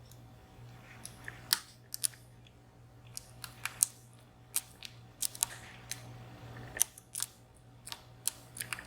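Irregular small metal clicks and ticks of a dimple pick working the pins of a VSR three-row, 14-pin dimple lock held under tension, over a steady low hum.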